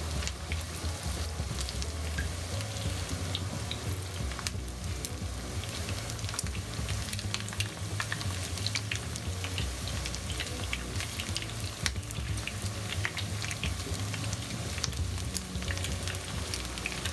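Starch-coated chicken pieces frying in hot sesame oil: a steady sizzle with frequent small pops and crackles.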